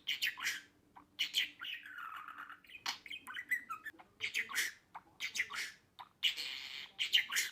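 Budgerigar chattering: a rapid run of short chirps and squawks with a longer warbled note about two seconds in and a harsh scratchy call near the end.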